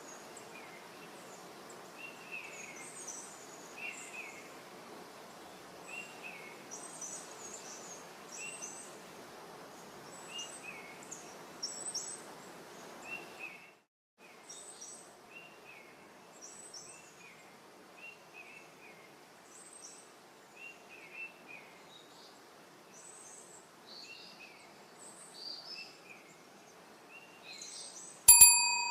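Small birds chirping in short, repeated calls, about one a second, over a steady background hiss. Near the end a loud bell-like ding rings out and fades.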